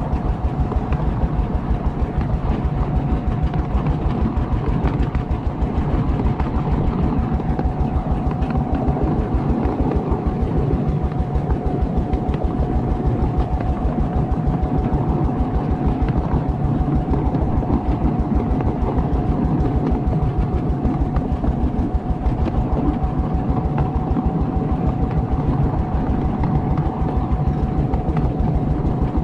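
Miniature railway locomotive running steadily along the track: a fast, even low pulsing with a constant whine over it.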